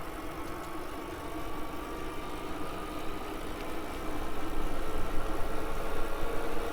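Steady riding noise of an e-bike in motion, tyres and wind, with a faint steady whine, growing louder over the last couple of seconds.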